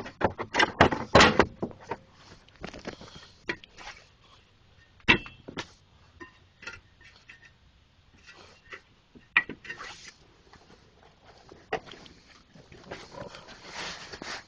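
Irregular metallic knocks and clicks of tools and brake parts being handled during wheel and brake work, a quick cluster of them in the first two seconds, then single knocks every few seconds.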